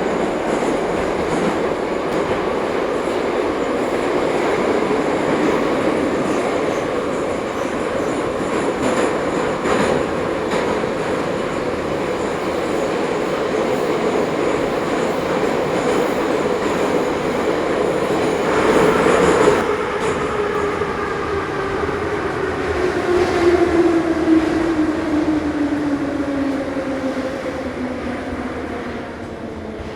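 Ezh3 metro train running through the tunnel with steady wheel and motor noise. About two-thirds of the way through there is a brief louder rush. After that a falling whine sets in and the overall level drops: the train is slowing down.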